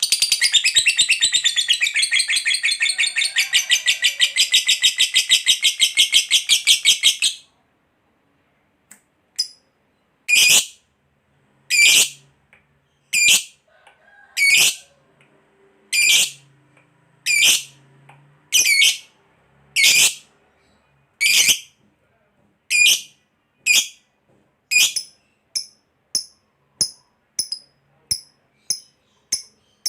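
Lovebird giving a long 'ngekek' chattering trill, a fast, shrill, unbroken rattle of notes lasting about seven seconds. After a short pause come single shrill calls about one every second and a half, which quicken to shorter calls about one every 0.7 seconds near the end.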